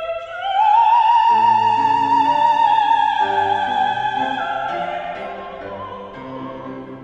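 A soprano singing opera, rising about half a second in to a high note that she holds with a wide vibrato for several seconds as it slowly fades. Instrumental accompaniment enters beneath the note a little over a second in.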